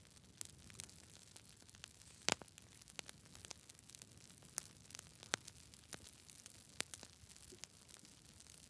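Wood campfire crackling: irregular sharp pops and snaps over a faint steady hiss, with one louder pop a little over two seconds in.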